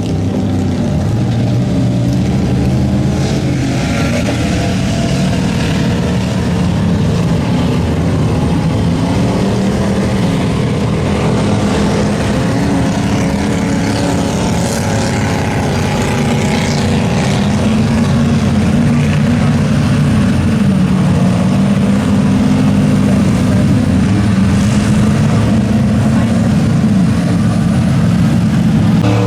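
Mud-bog truck engine revving hard under load for the whole stretch, its pitch repeatedly climbing and dropping as it works through the mud. It runs a little louder past the middle.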